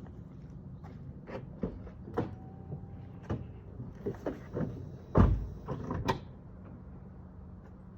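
A series of short clicks and knocks, then a heavy thump about five seconds in, like a car door shutting, and a few more clicks. A faint steady low hum follows.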